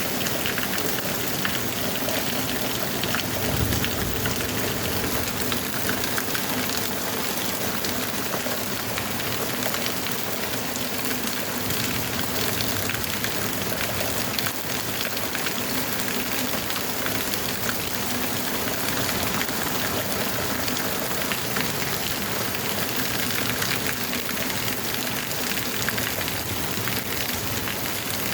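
Heavy rain pouring down steadily, a dense hiss of drops hitting surfaces with fine pattering ticks. A brief low rumble rises about four seconds in.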